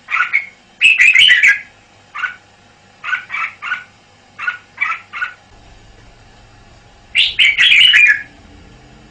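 Red-whiskered bulbul singing: bursts of short chirps in twos and threes, broken by two louder, longer warbled song phrases, one about a second in and one near the end.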